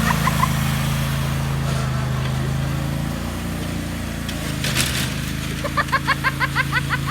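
Riding lawn mower engine running steadily, its pitch easing down a little about three seconds in and picking back up shortly after.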